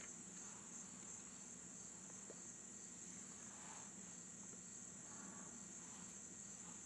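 Faint, steady high-pitched insect chorus, like crickets, running unbroken.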